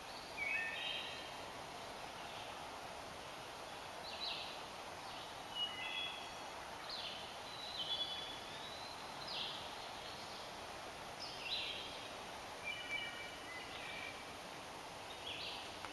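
Wild birds calling in woodland: a dozen or so short, high chirps and call notes, some quick downward strokes and some brief clusters of notes, spaced irregularly over a steady faint background hiss.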